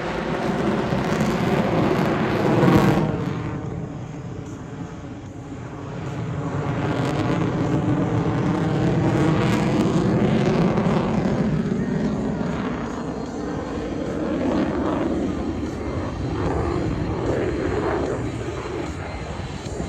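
F-22 Raptor's twin Pratt & Whitney F119 turbofans at a jet's roar as the fighter flies past, the tone sweeping up and down. Loud at first, it fades a few seconds in, then builds again and stays strong.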